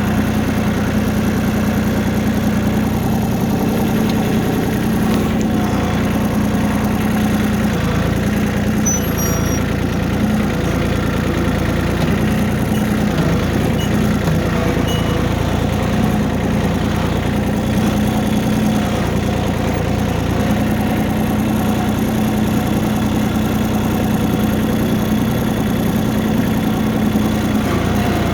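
Tractor engine running steadily at an even speed throughout, with a constant drone.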